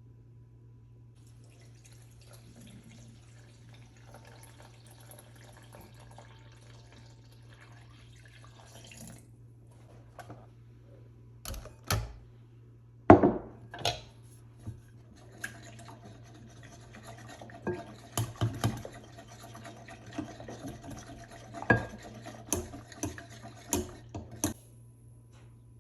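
Liquid pouring into a mixing bowl with a faint steady hiss for several seconds, then a string of sharp clinks and knocks of kitchen utensils against the bowl as bread dough ingredients are measured and mixed. The loudest knock comes about halfway through.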